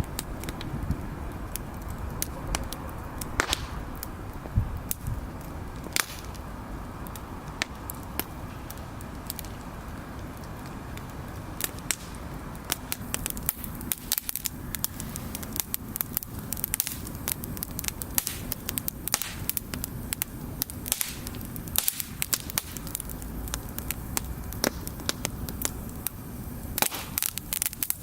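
Bonfire of burning wood crackling, with many sharp pops that come thicker in the second half, over a steady low rumble.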